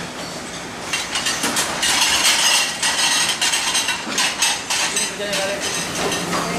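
Dishes and cutlery clattering: a dense, irregular run of knocks and clinks that grows busier about a second in.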